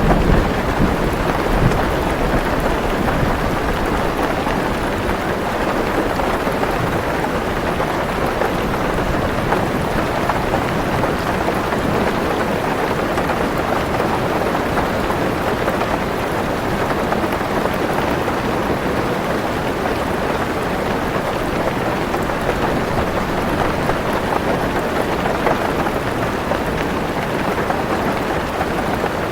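Heavy rain on a car roof, a dense, steady patter. A low rumble of thunder comes in the first couple of seconds.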